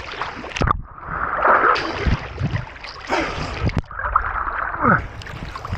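Water splashing and sloshing around a small boat, with a couple of sharp knocks.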